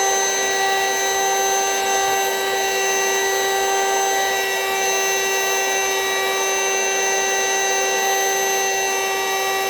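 Electric vacuum running steadily with an even, high whine, drawing the air out of a vacuum-seal storage bag of plush toys.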